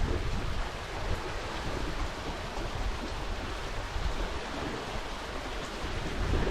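Lake water washing and splashing around a kayak, with wind noise on the camera microphone underneath it.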